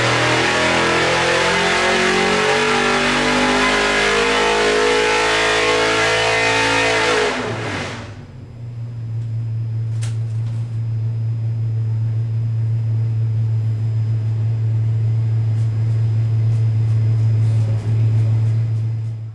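Small-block Chevy 355 V8 race engine running at high revs, then dropping back about seven and a half seconds in to a steady low idle.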